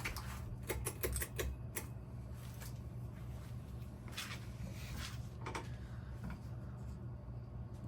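1992 Hunter Summit ceiling fan running on low speed: a steady low motor hum with scattered light clicks and ticks.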